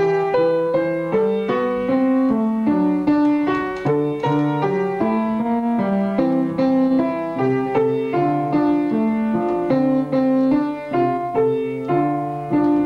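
Piano playing an instrumental passage of many short, quickly changing notes.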